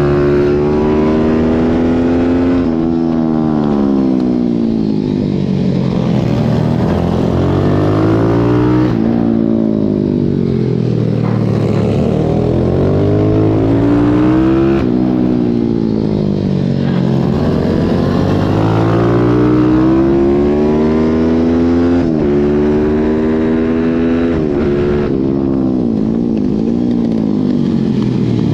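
Pit bike engine heard from onboard while racing, revving up and down over and over: pitch climbs as it accelerates, then drops sharply at gear changes and when it slows for corners.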